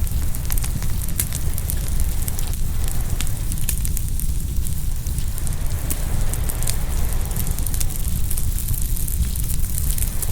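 Open bonfire crackling and popping, with frequent sharp snaps. A steady low rumble and a hiss of waves washing in from the shore run underneath.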